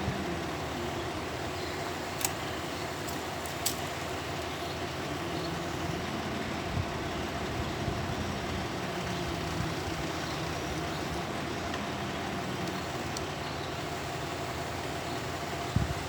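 Diesel engine of an excavator running steadily, its pitch shifting a little, with a few sharp clanks.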